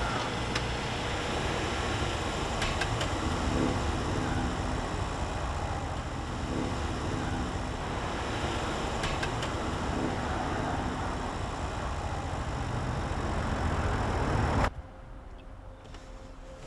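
Car or traffic noise: a steady low road rumble and hiss. About fifteen seconds in it cuts off abruptly to a much quieter room tone with a steady hum.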